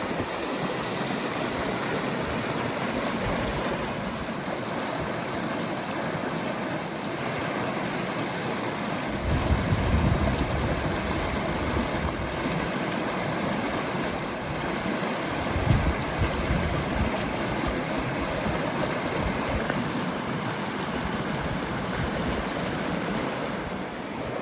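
River water rushing steadily. A few low gusts of wind hit the microphone about nine to ten seconds in and again near sixteen seconds.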